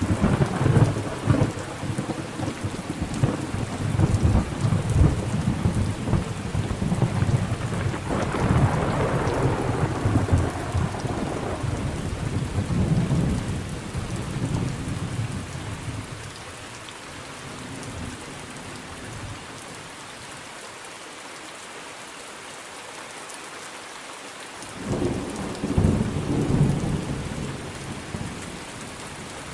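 Steady rain with rolling thunder: a long rumble starts suddenly, swells and fades out over about fifteen seconds, and after a lull of rain alone a shorter rumble comes near the end.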